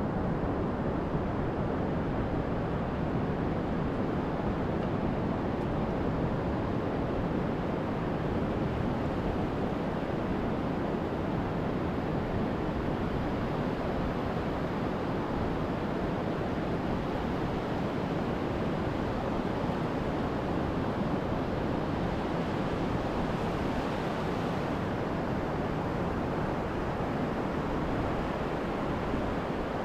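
Steady rush of surf from a big swell breaking on an ocean beach, with some wind noise.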